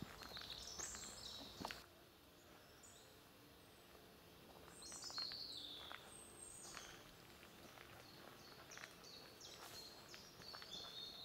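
Small woodland birds chirping in short, high calls that come in several bursts, with a few faint footstep crunches on twigs and leaf litter.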